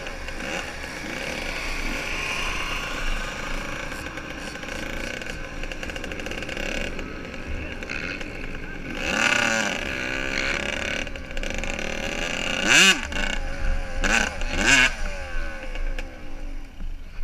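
Motocross bike engines running, with several quick revs rising and falling in pitch in the second half.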